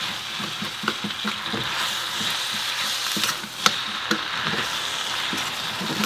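Onion, green onion and radish sizzling in hot oil in a frying pan as they are stirred, with a steady hiss and a utensil scraping and clicking against the pan now and then, one sharper knock about halfway through.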